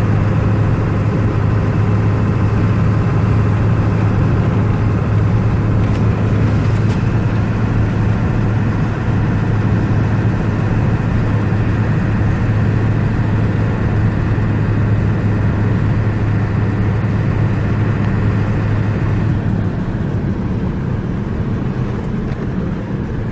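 Truck engine running steadily while driving in gear, a loud steady hum; about twenty seconds in the engine note changes, as at a gear change or easing off the throttle.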